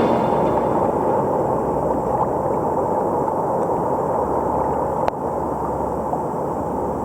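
Steady low rushing of surf and wind on the microphone, with a sharp click about five seconds in.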